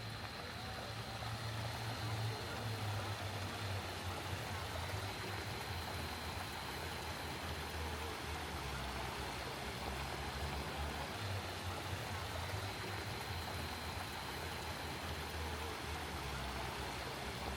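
Garden fountain water splashing, a steady rushing hiss of falling water that grows louder over the first couple of seconds, with a low rumble underneath.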